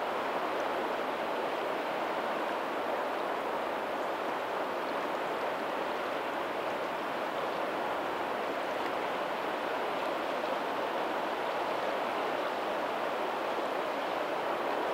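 Steady rush of moving water from a lagoon's tidal outflow meeting the sea, with faint ocean surf in the distance. It keeps an even level, with no single wave standing out.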